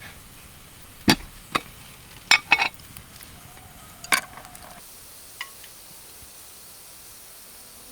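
Dishes and eating utensils being handled: about seven sharp knocks and clinks in the first five seconds, then only low background noise.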